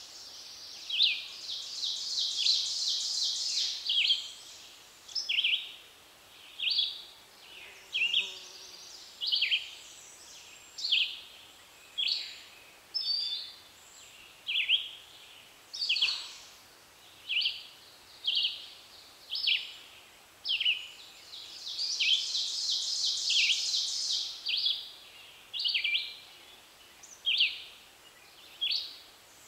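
Spring woodland birdsong: a bird repeats a short, downward-slurred whistled note about every second and a half. Twice, a longer high buzzy trill of about three seconds joins in.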